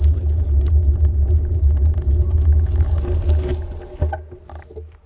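Wind rumble buffeting the microphone while riding a bike, with scattered clicks and rattles, dying away over the last second or so.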